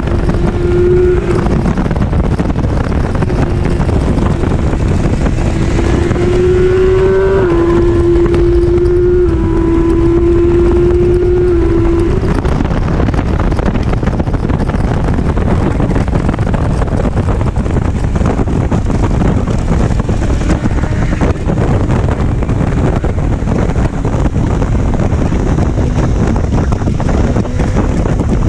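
Motorcycle engine running at road speed under heavy wind rush on the microphone. Its note holds steady with a few small jumps in pitch in the first half, then sinks under the wind noise.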